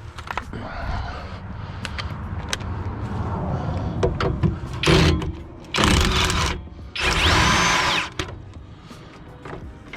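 Power impact wrench run in three short bursts, about five, six and a half and seven and a half seconds in, loosening the 17 mm bolt on a 2009 Honda Accord's rear suspension, with a low rumble building before them.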